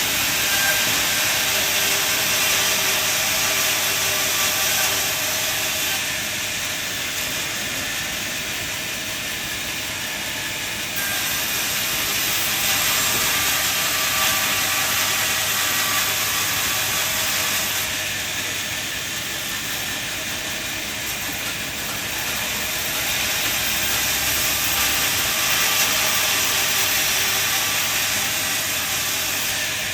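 Sawmill saw cutting through timber: a steady hissing rush with a faint machine whine beneath, growing louder and quieter in stretches of several seconds.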